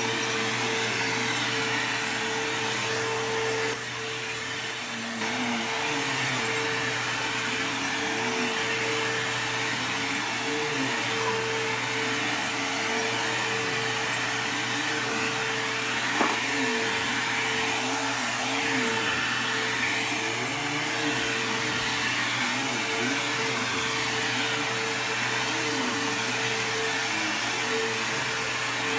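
A Bissell CleanView II bagless upright vacuum (model 3574) running steadily during vacuuming: a constant motor tone over the rush of airflow. It dips briefly about four seconds in, and a single sharp click comes a little past halfway.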